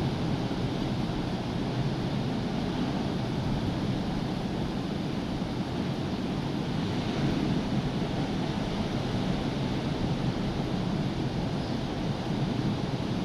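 Rough sea surf: waves breaking in a continuous, steady wash, with wind buffeting the microphone.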